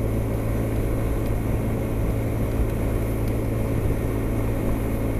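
Honda SH 300i scooter's single-cylinder engine holding a steady motorway cruise at about 110 km/h, a constant low drone with rushing wind and road noise, not revved hard.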